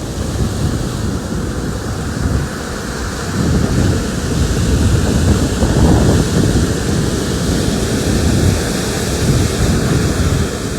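Wind buffeting the microphone over the steady wash of ocean surf from large waves breaking, swelling a little midway.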